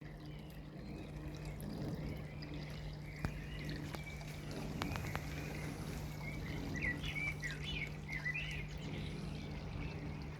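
Rain falling on a fish pond, with water trickling and pattering steadily. A few high chirps come in about six to eight seconds in.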